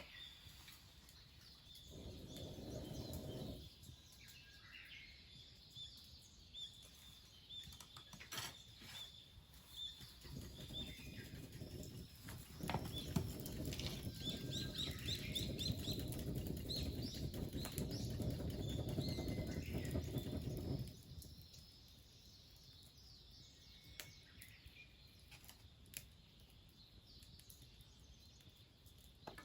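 Wild birds chirping outdoors, with many short calls throughout. Twice a low rushing noise rises over them: a short burst about two seconds in, and a longer, louder stretch that runs from about a third of the way through to about two thirds and then stops.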